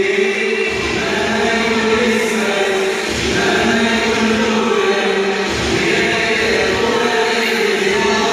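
A group of voices chanting together in long held notes, with music.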